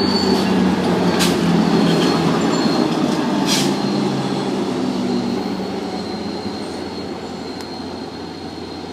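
Tri-Rail commuter train, led by a cab car and pushed by a BL36PH diesel locomotive, rolling slowly along the platform as it comes in to stop, a steady rumble of wheels and engine that gradually fades. A thin high squeal runs under it, with two sharp clicks about one and three and a half seconds in.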